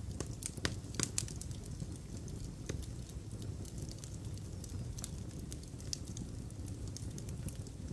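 Fireplace wood fire crackling: irregular sharp pops and snaps over a low steady rumble of the flames.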